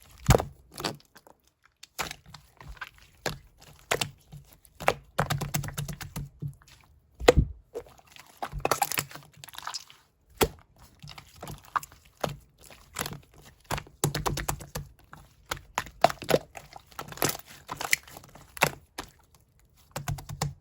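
Hands pressing, squishing and folding a 'milk pudding' slime, giving irregular crackles, clicks and small pops, sometimes several in a quick run.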